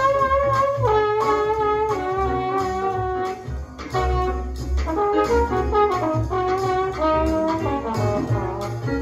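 Jazz recording: a horn ensemble plays a melody line in harmony, with held notes and stepwise changes, over a bass part.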